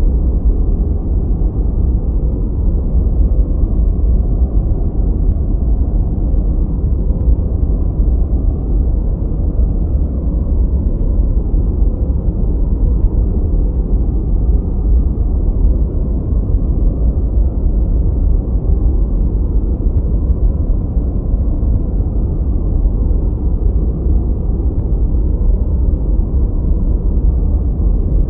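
Steady, unchanging noise from a study-and-sleep noise track. It is deep and muffled, with most of its weight in the bass and almost nothing in the treble.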